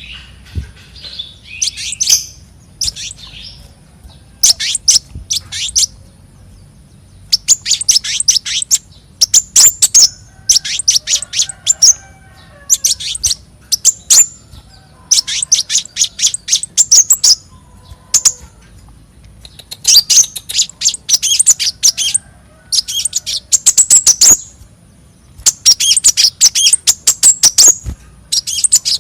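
Small songbird known in Indonesia as the konin, singing phrase after phrase of fast, high chirps and trills, each burst a second or two long with short pauses between.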